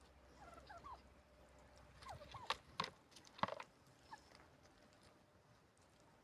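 Chickens clucking softly in short calls, with a few sharp clicks or taps around the middle.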